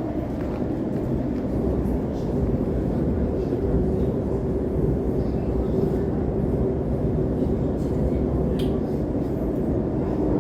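Elizabeth line Class 345 electric train running between stations, heard from inside the carriage: a steady low rumble of wheels on rail with a steady hum over it.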